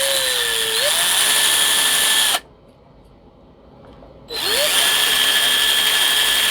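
Electric drill with a 1/4 inch bit drilling out stripped bolt holes in a guitar's wooden neck joint. It runs steadily, cuts off about two seconds in, then starts again and spins up about four seconds in.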